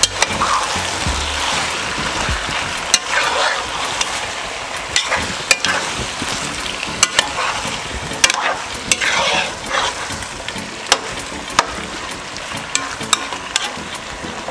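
Boneless chicken pieces and onion sizzling in hot oil in a large pot while a metal spoon stirs them, with repeated swishes and sharp clicks of the spoon against the pot.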